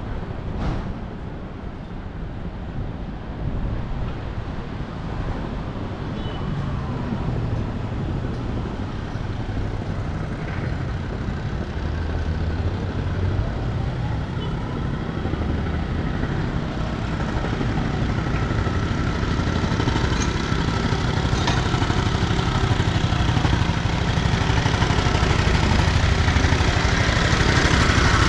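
City road traffic heard from a moving bicycle: a continuous rumble of cars and other motor vehicles, growing louder through the second half.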